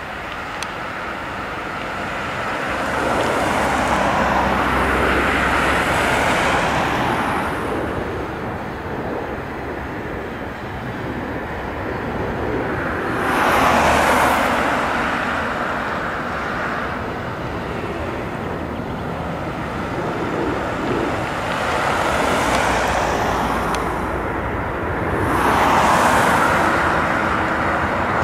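Road traffic passing by: three vehicles swell in and fade away one after another, a few seconds in, near the middle and near the end, over a steady rumble of background noise.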